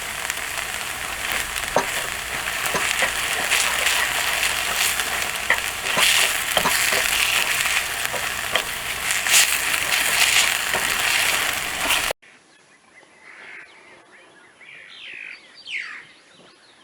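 Food sizzling in a pan over a camp stove, with scattered light clicks of stirring. About twelve seconds in, the sizzling cuts off abruptly to a much quieter background with a few short rising chirps.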